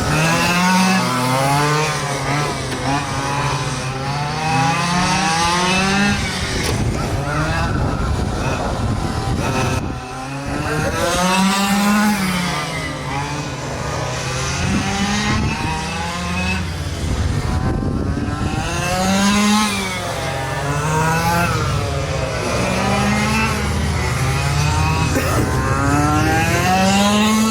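Several quarter-scale RC racing trucks' small two-stroke gas engines racing around a track, their pitch rising and falling over and over as they accelerate down the straights and ease off into the turns, with several engines overlapping.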